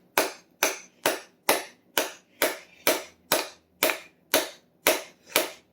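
A hammer striking a wedge into the top of a hickory hammer handle, about twelve sharp blows at roughly two a second, stopping near the end. The wedge spreads the handle's wood to lock the hammerhead on.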